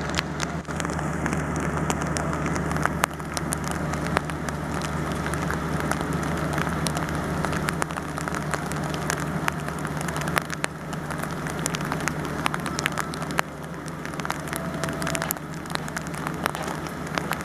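Rain falling, with drops striking a nearby surface in irregular sharp ticks over a steady low hum.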